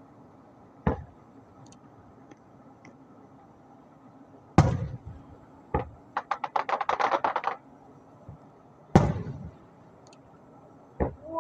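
Fireworks going off: several sharp bangs with a lingering tail, the loudest about 4.5 s and 9 s in, and a rapid run of crackles between them.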